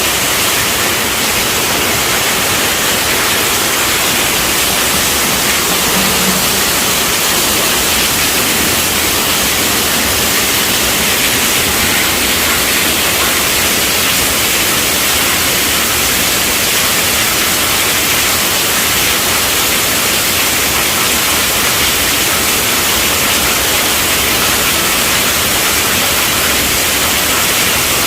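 Steady heavy rainfall, a dense even hiss of drops with no breaks.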